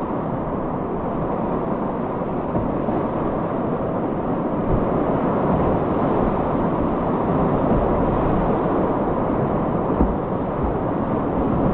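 Whitewater river rapids rushing steadily around a kayak.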